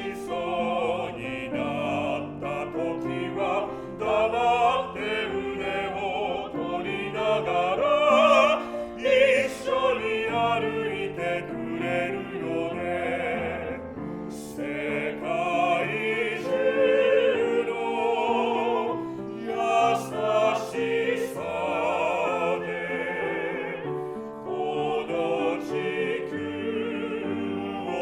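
Classically trained opera voices singing a slow song in Japanese with piano accompaniment. The held notes carry a wide vibrato.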